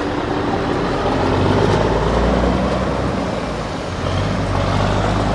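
Steady engine-like running drone with a low hum, growing a little louder about a second in, as the toy dumper and toy bulldozer pull against each other.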